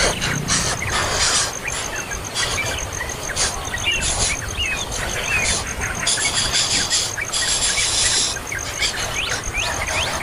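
Birds calling over and over: short rising chirps mixed with harsh, hissy squealing calls, the longest of these about six and seven seconds in.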